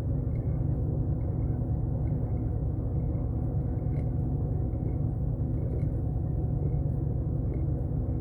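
An engine running steadily, a low rumble. Faint short chirps repeat above it every half second or so.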